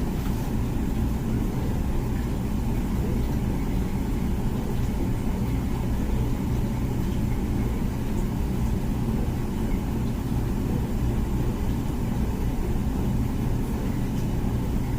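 Comfee dishwasher running its wash cycle: a steady low churning of the wash pump and spraying water, with no change in level.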